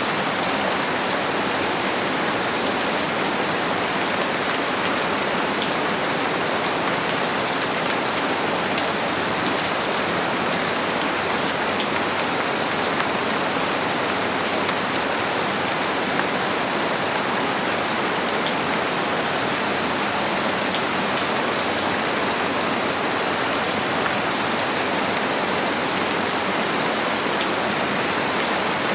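Steady rain falling, an even hiss with the fine patter of drops throughout.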